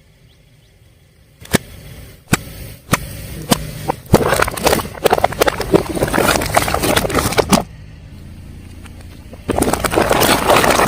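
A car tyre rolling over and crushing crunchy objects: a few separate sharp snaps, then several seconds of dense crackling and crunching. A low car rumble follows, and a second burst of crunching comes near the end.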